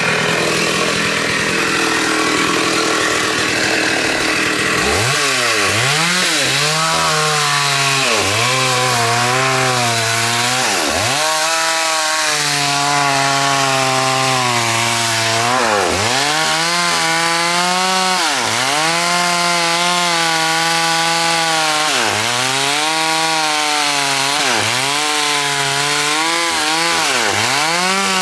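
Two-stroke chainsaw running at high revs and cutting into a large mahogany tree. Its pitch dips sharply and recovers every couple of seconds as the chain bogs in the wood and picks up again.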